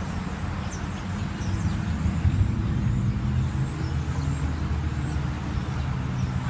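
A motor vehicle's engine running steadily at low speed as it arrives, with faint high bird chirps over it.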